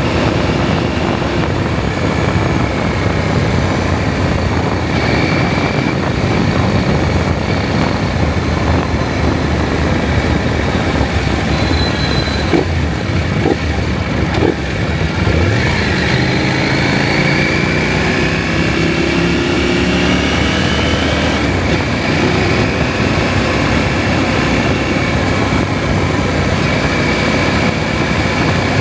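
KTM 790 Adventure's parallel-twin engine running under way, with steady wind rush on the microphone. Around the middle the engine note drops back, with a few sharp clicks. It then rises steadily in pitch as the bike accelerates.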